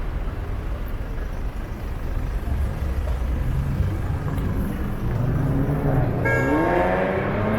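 Street traffic rumbling. About six seconds in, a short horn-like toot sounds, then a vehicle engine revs up, its pitch climbing steadily as it accelerates.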